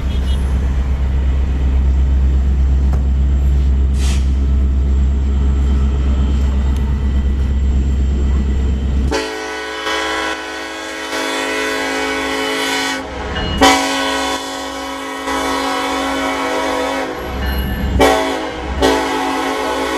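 Low rumble of a passing diesel freight train, then about nine seconds in a diesel locomotive's multi-chime air horn sounds in long blasts, with brief breaks between them.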